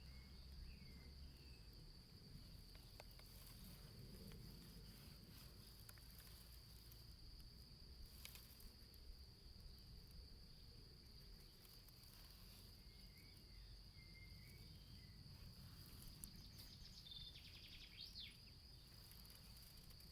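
Faint outdoor ambience: a steady, high-pitched insect drone, with a few faint short chirps about a second in and again in the second half.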